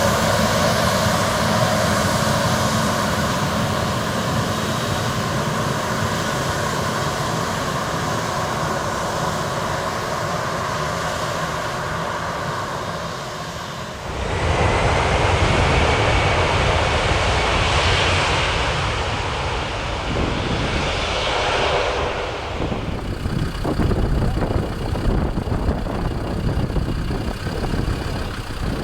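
Airliner engines running with a steady hum of several held tones that slowly fades; about halfway through it cuts abruptly to a louder rushing engine noise, which dies down after several seconds into a rough, uneven rumble.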